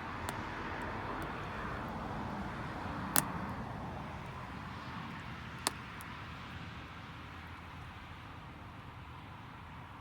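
Campfire of damp firewood crackling, with two sharp pops, about three seconds in and again near six seconds, and a few fainter ticks. Under it a steady rush from a passing vehicle swells over the first few seconds and slowly fades.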